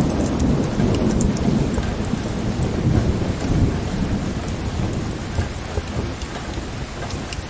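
Low rolling thunder under steady heavy rain, swelling about three seconds in and then fading away. Scattered small sharp crackles sound over it.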